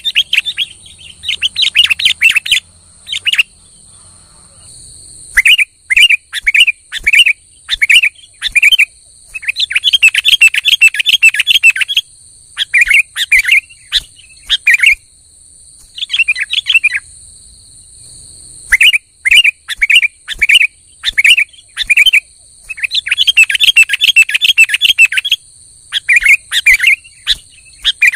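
Sooty-headed bulbul (kutilang) singing: repeated bouts of quick chirped phrases, each a few seconds long, with short pauses between them.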